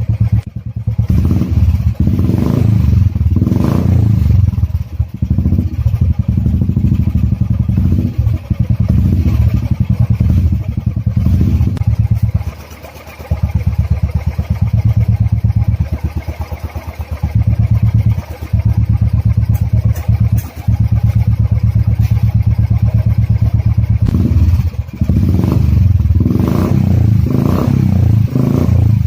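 Royal Enfield motorcycle's exhaust through an aftermarket Dolphin silencer: the engine idles with a steady low, even thumping, blipped several times into short revs, a few near the end.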